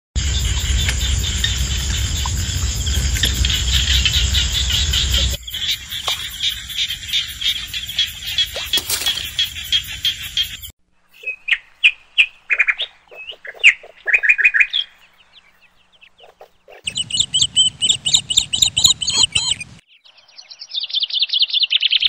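Repeated high bird chirps and calls in several short stretches, cut together abruptly. A low rumble runs under the first five seconds.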